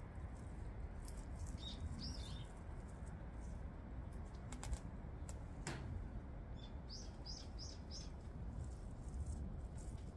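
Small birds chirping: a few short chirps about two seconds in, then a quick run of four about seven seconds in, over a steady low outdoor rumble. A few sharp clicks sound near the middle.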